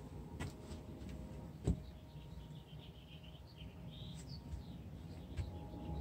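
Small birds chirping in quick, high runs of short notes, with a few sharp knocks in between, the loudest about two seconds in.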